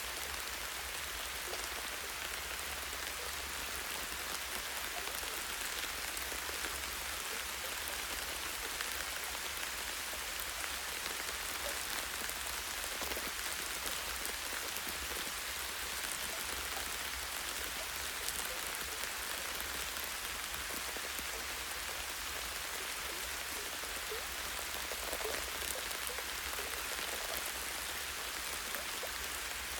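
Light rain falling steadily, a constant patter of drops on leaves and a tree branch, with a low rumble underneath.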